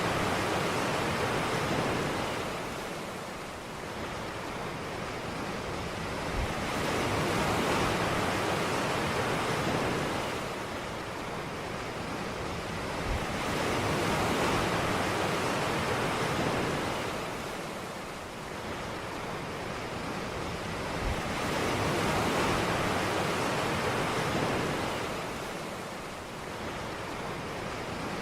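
Ocean waves breaking and washing up a beach, a steady surf wash that swells and falls back about every seven or eight seconds.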